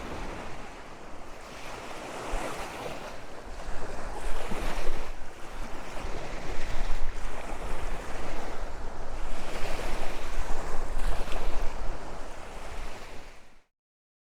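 Waves washing onto a Lake Superior beach with wind buffeting the microphone, the rush swelling and easing every second or two; the sound cuts off suddenly near the end.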